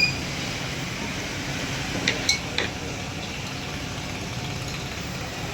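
Sharp metallic clinks, one at the start and three close together about two seconds in, some with a brief ringing tone, over a steady low mechanical hum.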